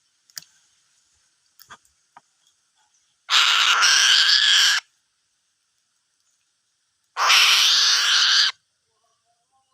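An eagle giving two long, harsh, screeching calls about four seconds apart, after a few faint clicks.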